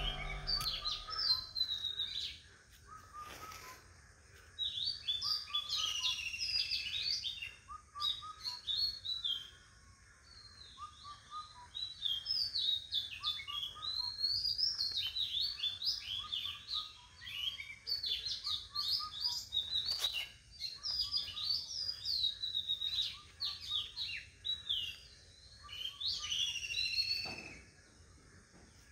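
Birds chirping and twittering in short repeated phrases, with brief silent gaps between the phrases.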